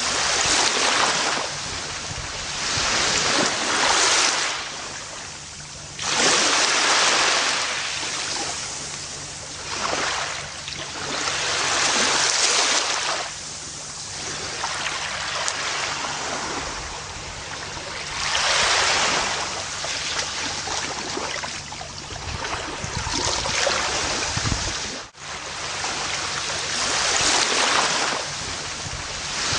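Gentle ocean waves washing onto a beach, a hissing rush that swells and recedes every few seconds. A brief break in the sound comes about 25 seconds in.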